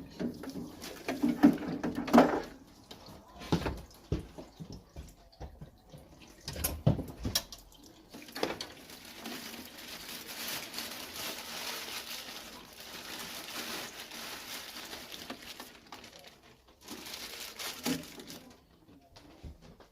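Sharp clicks and knocks of hand tools on boiler pipework fittings, then a steady hiss of water running out of the opened pipework for about eight seconds.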